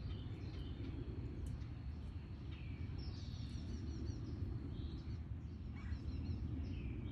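Small backyard birds chirping and calling over a steady low background rumble, including a short falling whistle and a quick run of high chirps about three seconds in.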